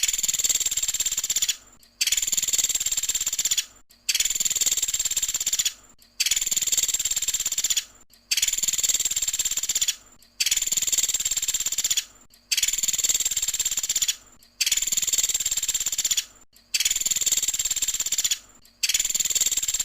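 A pelatuk sampit's rapid trilling call ('tembakan'), repeated in nearly identical high-pitched bursts of under two seconds with short gaps, about one every two seconds: a looped bird-training recording.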